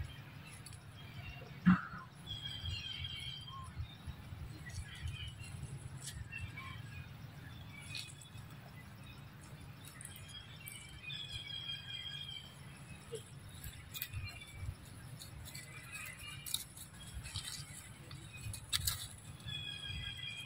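Birds chirping in short, high, repeated phrases at intervals over a low steady rumble, with one sharp tap about two seconds in.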